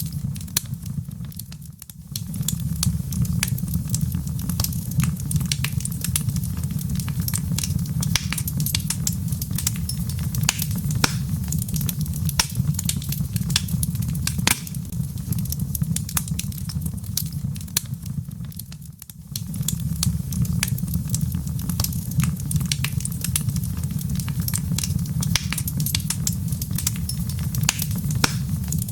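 Log fire crackling, with many sharp pops and snaps over a steady low rumble. The sound dips briefly twice, about two seconds in and again about two-thirds of the way through, where the fireplace recording loops.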